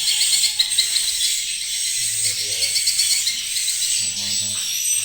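Swiftlets twittering: a dense, high, fast chirping that goes on throughout. A short low hum cuts in twice, about two seconds and four seconds in.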